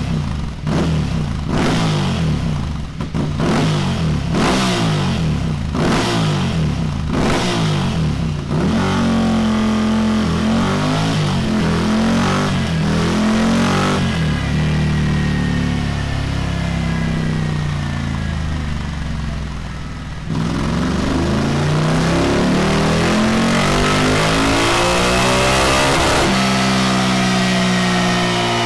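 Ducati Scrambler Desert Sled's air-cooled L-twin through a Delkevic DS70 carbon fibre oval muffler, blipped about seven times in quick succession, then revved in long pulls with the pitch rising. The revs drop briefly about twenty seconds in, then climb and hold high again.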